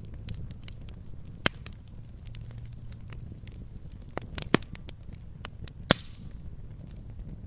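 Campfire crackling: burning wood giving off irregular sharp pops and snaps, a few louder ones about a second and a half in, around four and a half seconds and near six seconds, over a low steady rumble of the flames.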